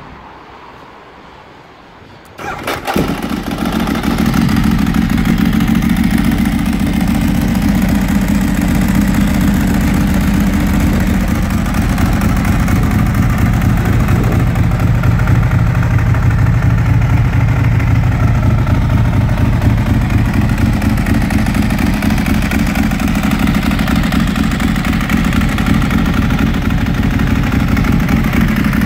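A 2008 Ducati 1098's L-twin engine is started, catching about two and a half seconds in, then idles steadily.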